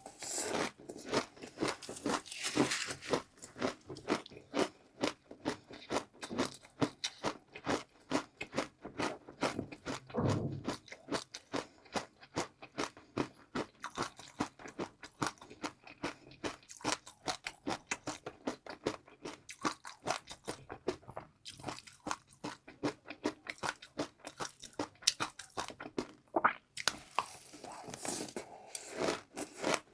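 A person biting and chewing crunchy food close to the microphone: quick, crisp crunches, several a second, without a break.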